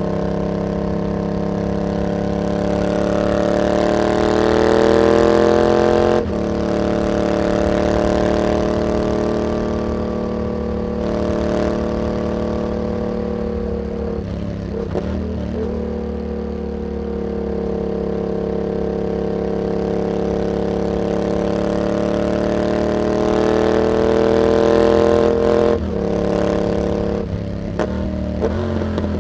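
Yamaha MT-07's parallel-twin engine through an aftermarket carbon exhaust, under way. The revs climb in long pulls, then drop sharply twice as the throttle shuts or the gear changes. There is a rougher, crackly stretch midway and a few quick throttle blips near the end.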